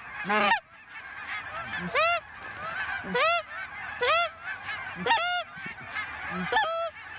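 Goose honks: six or seven loud, separate honks that break from a low note up to a high one, over the steady chatter of a large flock of lesser Canada geese calling.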